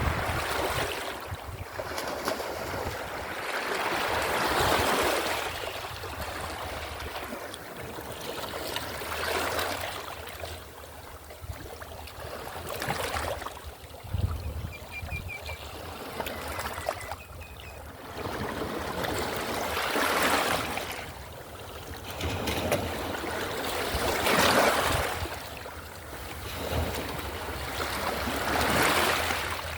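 Mediterranean Sea waves washing in and out, each surge of hiss swelling and fading about every four to five seconds.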